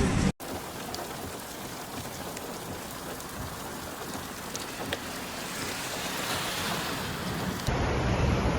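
Steady rain falling, an even hiss with a few faint ticks of drops. Near the end it cuts to a louder, deeper rushing noise.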